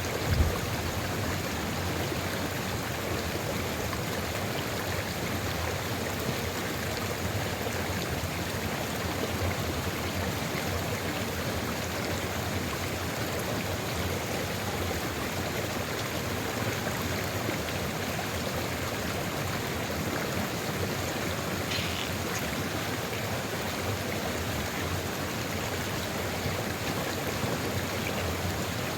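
Sulfur river flowing steadily, an even rushing of water, with a single low thump about half a second in.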